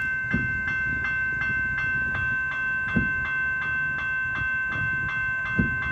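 Railway level-crossing warning bell ringing rapidly, about three strokes a second, over the low rumble of a diesel railcar standing at the station. A couple of short dull thumps come through about halfway and near the end.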